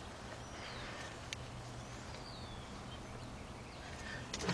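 Quiet background: a low steady hum with a few faint, short descending bird chirps, one light click, and a few light clicks near the end.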